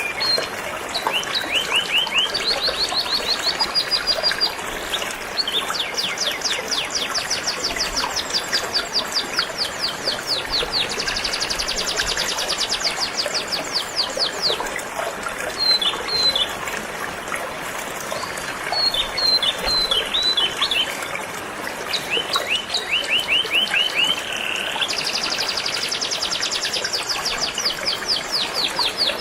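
Canary singing in rapid trills, phrase after phrase of fast repeated high notes, over the steady rush of a flowing stream.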